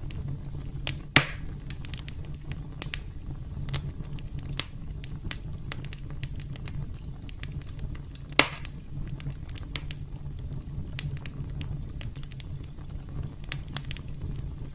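Campfire crackling: a steady low rumble of burning with scattered sharp snaps, and two loud pops about a second in and past the middle.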